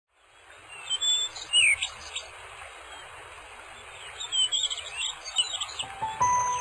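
Birds chirping, with short high whistled calls that slide down in pitch, fading in from silence. Music with held tones begins near the end.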